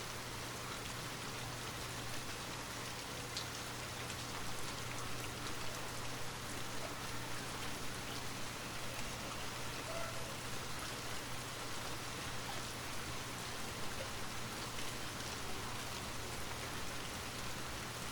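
Steady rain falling, a dense even hiss with scattered small drop ticks, over a low steady hum.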